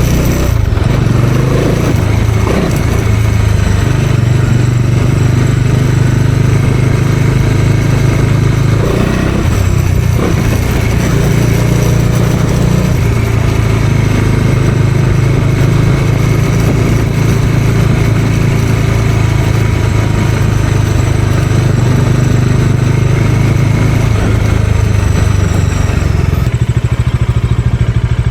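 Bajaj Dominar 400 motorcycle's single-cylinder engine running under way, its note shifting a few times with throttle and gear changes, then settling to a steadier, lower note near the end.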